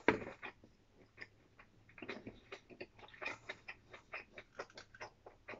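A person chewing food, with many small wet mouth clicks and smacks, and now and then a light tap of wooden chopsticks against the dishes.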